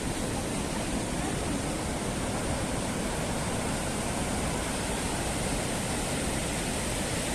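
Steady rush of running water, an even hiss-and-roar that holds at a constant level.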